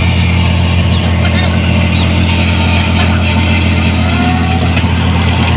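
New Holland 1545 combine harvester's diesel engine running steadily with a loud, aggressive-sounding exhaust.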